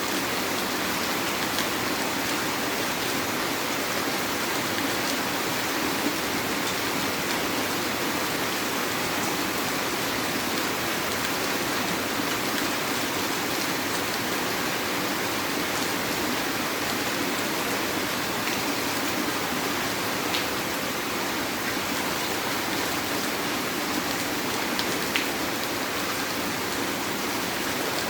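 Heavy rain falling steadily, with a few sharper drop ticks here and there.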